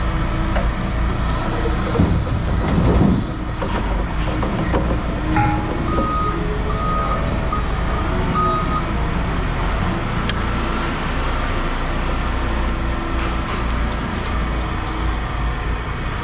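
Heavy diesel equipment running with a steady low rumble, its reversing alarm beeping several times partway through.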